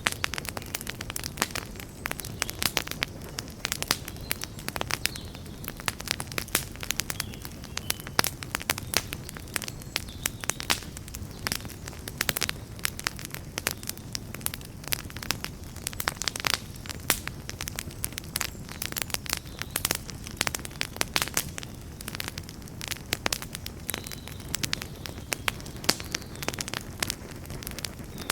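Campfire burning steadily with a low rumble of flame and frequent irregular crackles and pops from the burning wood.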